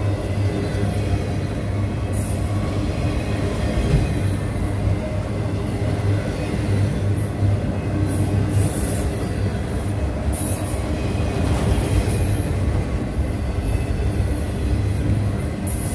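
Train rolling past, with a steady low rumble of wheels on rail and repeated brief high-pitched wheel squeals.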